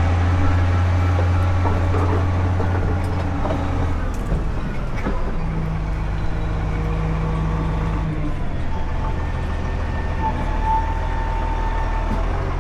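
Motor grader's diesel engine running steadily under work, its note changing about five seconds in. A thin, steady high whine comes in for a few seconds near the end.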